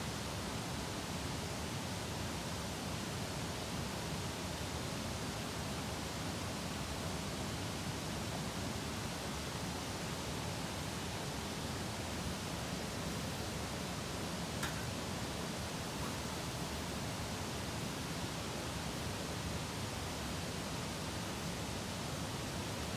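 Steady, even hiss, with one faint click about 14.5 seconds in.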